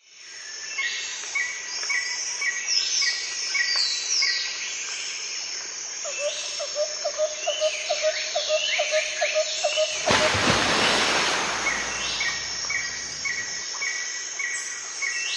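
Several birds calling and singing together: repeated short chirps, sliding whistled calls and, midway, a rapid run of lower pulsed notes. About ten seconds in, a loud rushing noise rises over them for two or three seconds.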